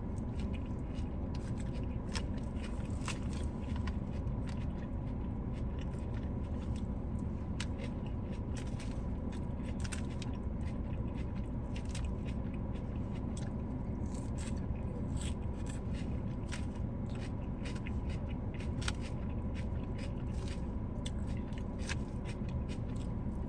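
Close-up eating sounds: chewing and biting, with scattered small crunches, clicks and scrapes, over a steady low hum.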